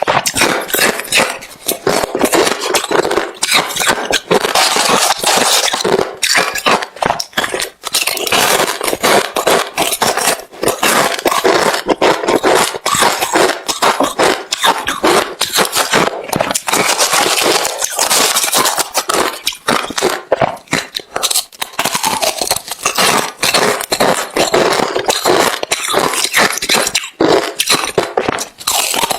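Close-miked chewing of hard refrozen crushed ice: a rapid, nearly unbroken run of crisp crunches and cracks.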